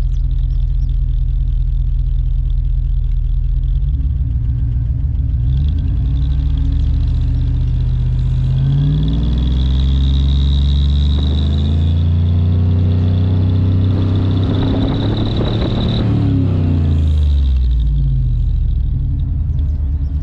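Trailblazer SS 6-liter V8 exhaust, with a turbo-whistle insert in its single tailpipe, idling and then revved slowly up, held high for several seconds and let fall back to idle. A faint steady high tone comes in while the revs are up, but the insert gives little or no real whistle.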